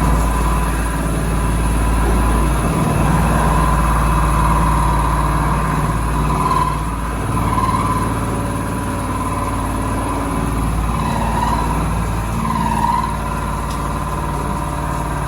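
CNC vertical machining centre running while it mills a die: a steady machine hum under a held high tone that wavers and swells several times.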